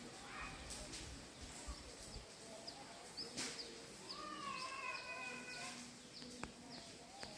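Birds chirping in tropical woodland, short high chirps repeating many times. About four seconds in comes a longer call held for nearly two seconds.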